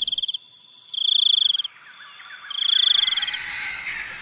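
Cricket chirping in three short, fast-pulsing high trills about a second apart, with faint bird chirps coming in near the end.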